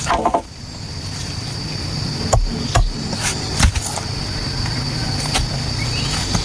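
Bamboo being worked with hand tools: a few sharp knocks and taps, most of them between two and four seconds in, over a steady high-pitched insect drone.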